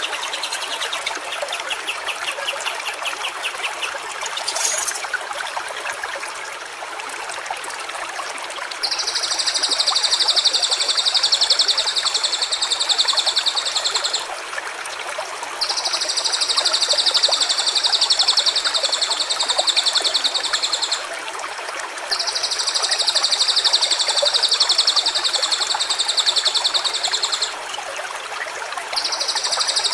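Running water flows steadily, and from about nine seconds a high, fast-pulsing trill sounds in long stretches of about five seconds each, four times with short pauses between.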